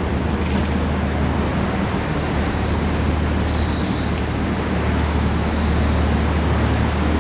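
Excursion boat's engine running steadily under way: a constant low drone under an even rushing noise.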